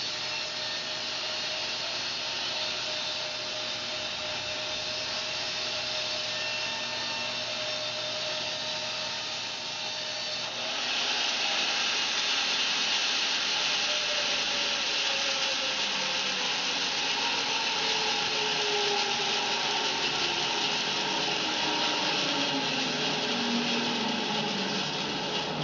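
Home-built bandsaw mill running through fir, steady and machine-like. About ten seconds in it grows louder and hissier, as the blade works through the log. Through the second half a tone slowly falls in pitch.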